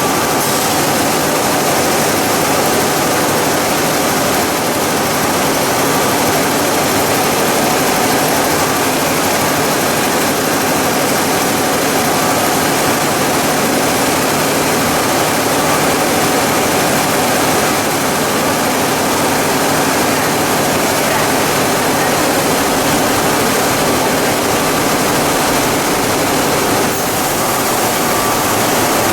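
Machinery of a PE and calcium carbonate pelletizing line running: a loud, steady mechanical noise with a faint hum of a few steady tones, unchanging throughout.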